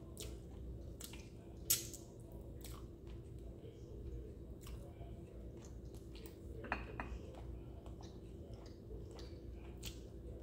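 Chewing and wet mouth sounds from eating fish and pasta, with scattered small clicks and a sharper click about a second and a half in, over a steady low hum.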